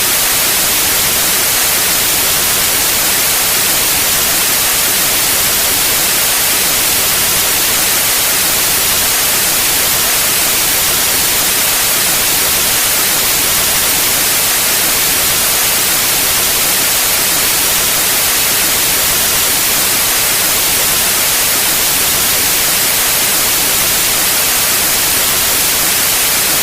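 Steady white noise: an even, unchanging hiss spread across the whole range, loudest in the high end.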